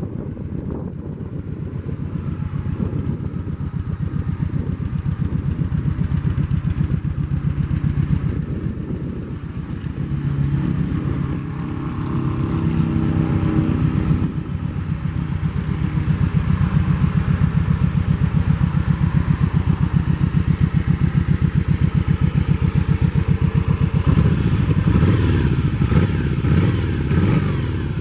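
2009 Kawasaki Nomad V-twin running through its stock exhaust, a steady pulsing note. The engine speed rises and falls a few times, then holds higher and louder, with some added rattle near the end.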